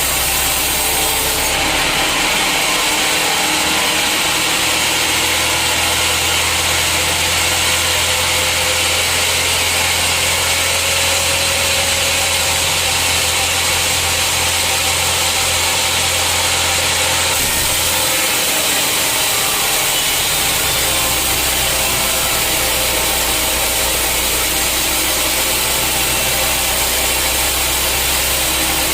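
Sawmill saw running steadily through a hard teak log, a continuous loud cutting noise over the machine's low hum.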